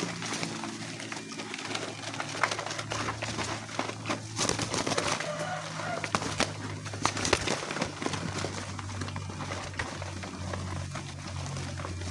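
A flock of homing pigeons cooing, with scattered short clicks and rustles from the birds moving around.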